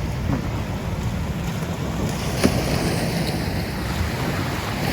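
Wind buffeting the microphone over the steady wash of surf, with one sharp click about halfway through.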